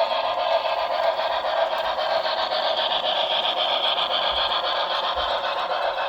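Model Santa Fe Blue Goose 3460 steam locomotive and passenger cars running along the track: a steady running noise of motor and wheels on rail.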